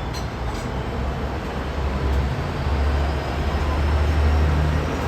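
Train running, a steady low rumble with a faint high whine that rises slowly through the second half.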